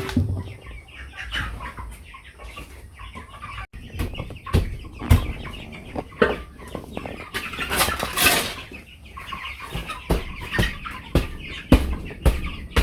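Broiler chickens clucking, with repeated scraping, knocking and rustling of wood-shaving litter being turned over; a louder rustle comes about eight seconds in.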